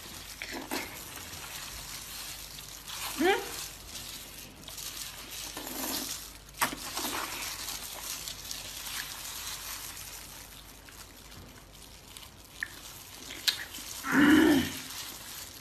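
Close-miked chewing and wet mouth sounds of eating a soft bread roll filled with fatty meat, with scattered small smacks and clicks. A brief vocal sound about three seconds in and a louder one near the end.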